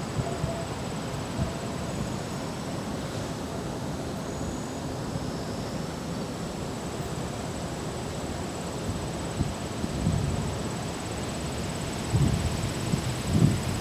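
Steady outdoor rushing noise, with wind buffeting the microphone in low gusts about ten seconds in and again near the end.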